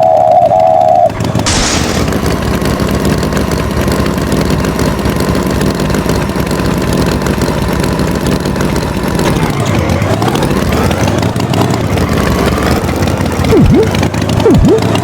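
Cartoon tractor engine sound effect running steadily, its pitch dipping and rising again about ten seconds in. A short loud wavering tone comes first, and a few quick falling sweeps come near the end.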